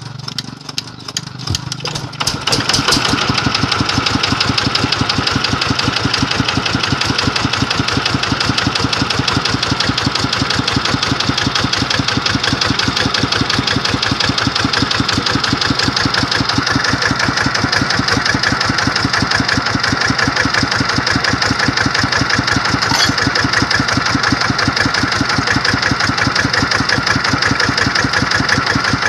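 An engine catches about two seconds in and then runs steadily at idle with a fast, even firing beat.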